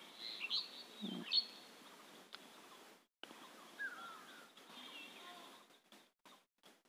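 Birds chirping faintly in the background: several short, gliding whistled calls over a light hiss, with the sound cutting out briefly a few times in the second half.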